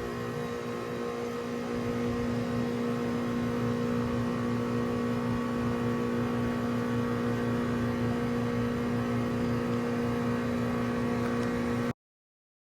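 Trane XR14 1.5-ton heat pump running steadily: a compressor hum under the outdoor fan's whir, growing slightly louder over the first two seconds. Then it cuts to silence abruptly near the end.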